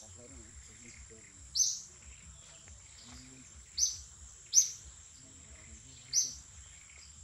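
Short, high bird chirps every second or two over a steady, high-pitched insect drone.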